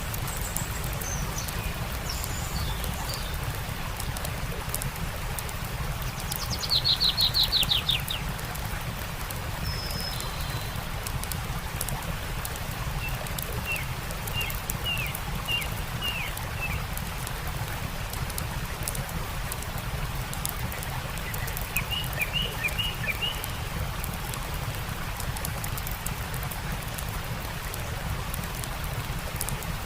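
Birds calling over the steady rush of a stream, with the small crackles of a campfire. The loudest call is a fast trill of rapid descending notes about seven seconds in; later come two runs of short chirps.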